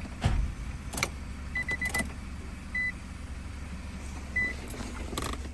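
Short high electronic beeps, four quick ones about a second and a half in, then single beeps about a second and about two and a half seconds later, during key programming on a 2003 Infiniti G35. Scattered clicks of handling and a steady low hum run underneath.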